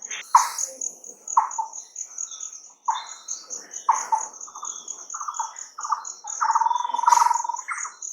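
Birds calling in short, repeated chirping calls, with one longer held call near the end, over a continuous high-pitched pulsing trill.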